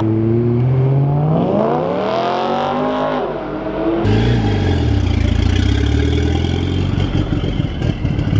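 A car engine revving hard under acceleration, its note climbing steadily for about three seconds before dropping away. About four seconds in, a deeper, uneven engine sound picks up and keeps going.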